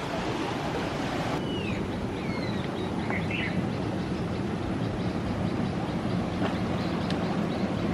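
Steady rush of ocean waves breaking close by, with a few short bird chirps a couple of seconds in.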